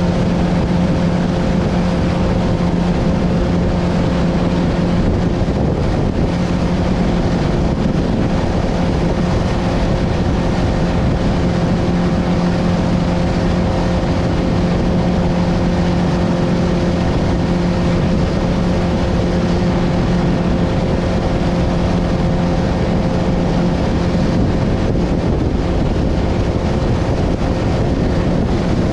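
Motorboat engine running steadily under way, a constant drone over the rush of strong wind on the microphone and water.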